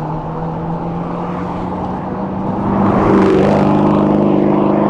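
Street traffic heard from a moving bicycle: a car engine running close by with a steady low hum, getting louder about three seconds in as a vehicle passes, over road and wind noise.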